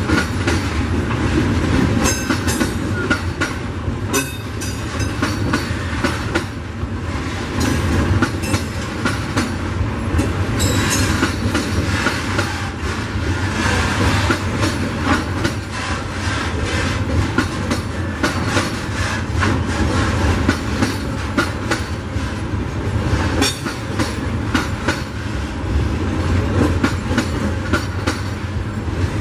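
Freight wagons loaded with eucalyptus logs rolling steadily past. Their wheels rumble and clack over the rail joints, with occasional short, high metallic squeaks.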